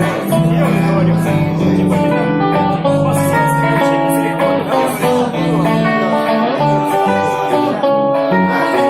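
Instrumental guitar break in a song: plucked and strummed guitar over a bass line, with no singing.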